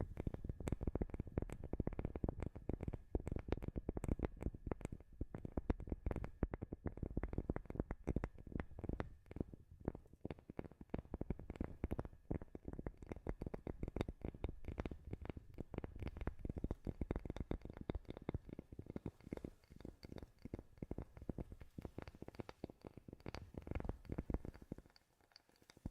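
Rapid, continuous tapping on a wooden surface, many taps a second, easing off briefly near the end.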